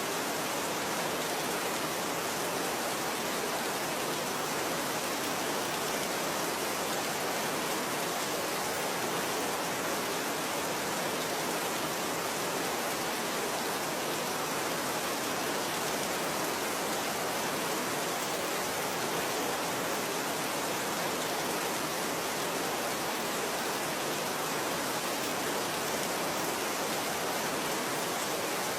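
Steady rain falling, a constant even hiss with no separate drops or thunder standing out.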